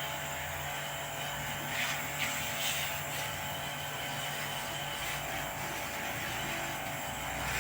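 A machine running steadily, a constant hum under an even hiss, with a few brief swishes about two to three seconds in.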